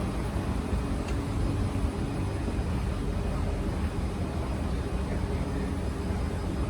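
Steady low rumble and hum inside a Kawasaki C151 MRT train car.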